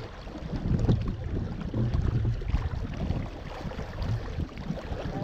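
Water rushing and lapping against the hull of an RS Zest sailing dinghy, with an uneven low rumble of wind on the microphone.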